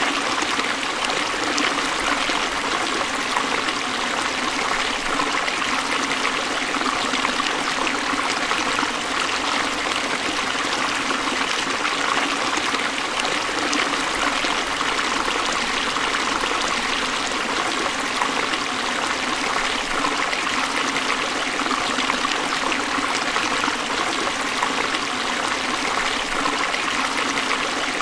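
Forest stream flowing and trickling over rocks: a steady, even rush of running water.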